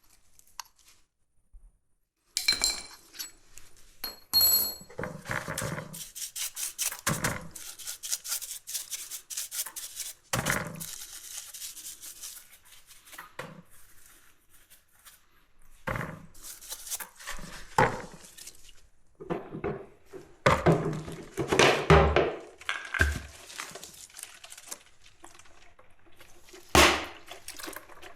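Irregular knocks and clinks of hand tools and metal parts being handled during engine repair work, with a dense run of louder knocks about twenty seconds in and a single sharp knock near the end.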